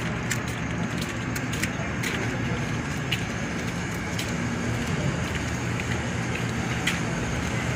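Steady outdoor street background noise: an even hiss with a faint low hum under it and a few light scattered ticks.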